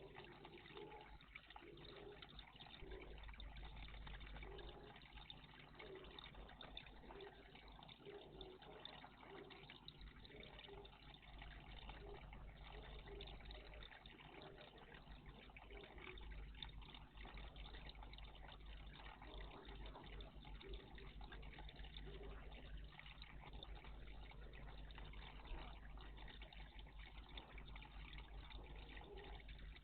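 Faint, steady running water of a garden bird bath, a continuous trickle.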